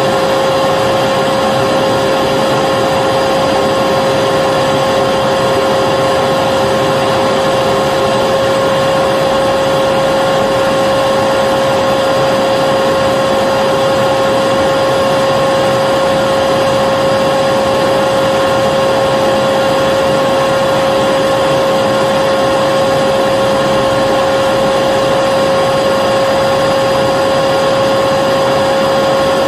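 Vacuum cleaner running steadily, a loud even rush of air with a constant high motor whine, unchanging throughout.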